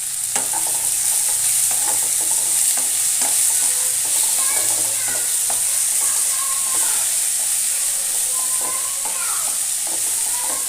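Chopped onion, green chillies and tomato sizzling in hot oil in a pan while a spatula stirs them, knocking and scraping against the pan from about a third of a second in. There are short squeaky scrapes now and then, and salt has just been added to help the tomato break down.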